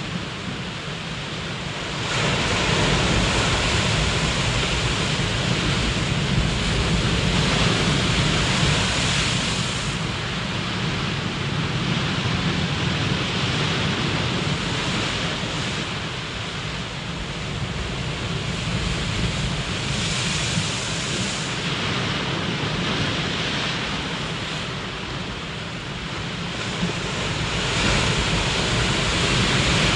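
Ocean surf: a continuous wash of breaking waves that swells and recedes every several seconds.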